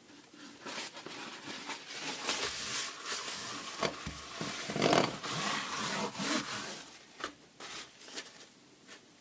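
Hands and tools working on a disassembled pressure washer pump: irregular rubbing and scraping with sharp clicks and knocks, loudest about five seconds in and sparser near the end.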